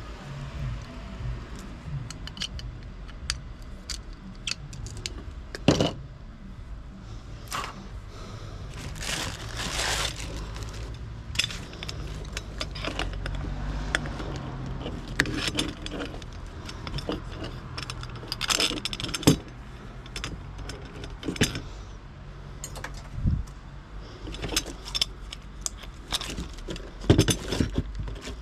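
Scrap metal clinking and clattering as pieces are handled and dropped, with irregular sharp knocks throughout over a low steady hum.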